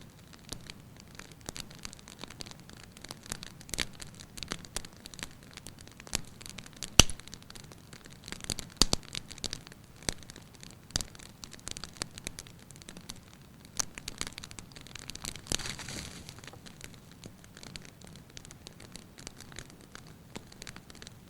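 Firewood burning in a fireplace with light, irregular crackling: scattered pops and snaps over a soft hiss. The sharpest crack comes about seven seconds in.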